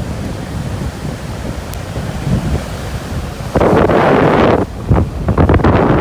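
Storm surf washing onto the beach under strong wind buffeting the microphone. About three and a half seconds in, the noise jumps suddenly to a loud rush, and it comes in gusts after that.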